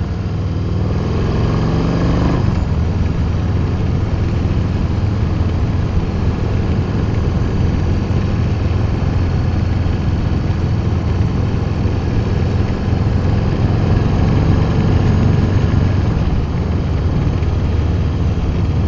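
Harley-Davidson Milwaukee-Eight 117 V-twin with TAB Performance slip-on exhausts and medium baffles, running on a Stage 1 tune while under way. It rises in pitch through a brief break near the start, likely a gear change, for about two and a half seconds. Then it settles into a steady cruise with road and wind noise.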